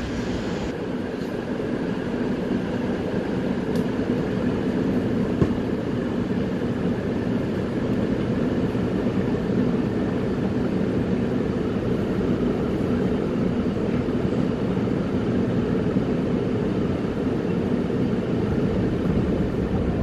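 Gyeongui–Jungang Line electric commuter train running at a steady speed: a continuous, even running noise of wheels on rails and motors, with a faint tick or two.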